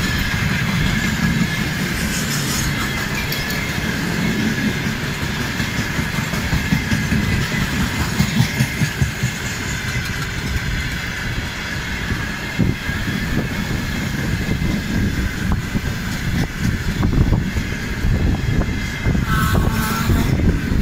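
Freight train wagons, tank cars then open gondolas, rolling past at speed: a loud steady rumble with the uneven clatter of wheels over the rail joints, and a short squeal near the end.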